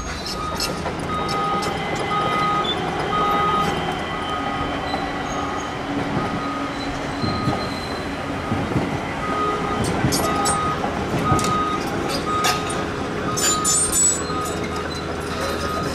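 ÖBB Cityjet electric suburban train running through the station, with wheel and rail clicks and rattles. Over it a steady, evenly repeated warning beep sounds about every 0.7 seconds, like a reversing alarm.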